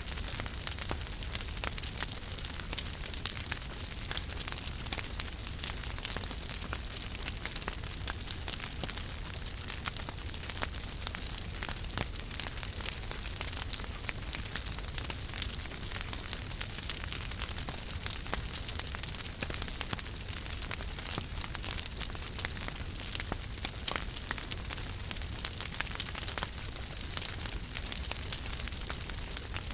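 Wood fire burning in a fireplace, crackling continuously with many small sharp pops over a steady hiss and a low rumble.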